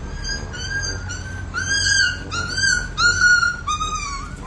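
Dog whining: a run of about seven short, high-pitched whines, each under half a second, the last ones a little lower in pitch.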